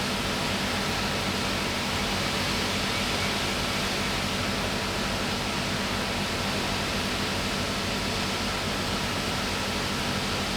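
Steady rain and wind from the approaching Cyclone Freddy, an even, unbroken hiss.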